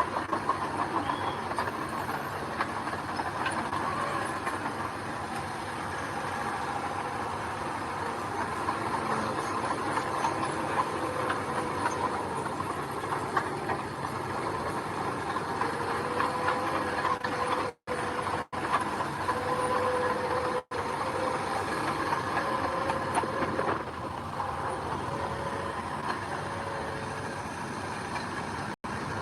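Heavy diesel earthmoving machinery running steadily, its engine holding a constant tone. The sound cuts out for an instant a few times in the second half.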